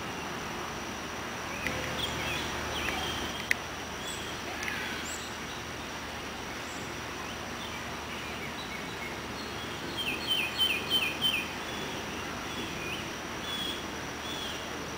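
Backyard birds chirping and calling at scattered moments, with a quick run of about five loud down-slurred notes about ten seconds in, over steady outdoor background noise. A single sharp click about three and a half seconds in.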